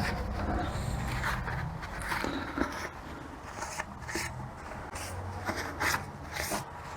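Scrapes and small metallic clicks of transmission overdrive parts being handled and fitted by hand, with a low steady hum underneath.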